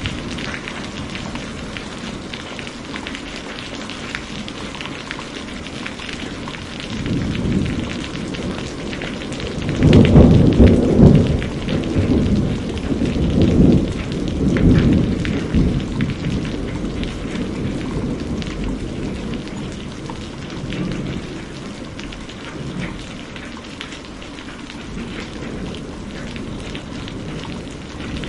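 Steady rain falling, with a roll of thunder building about a third of the way in, rumbling loudest for several seconds and fading out slowly.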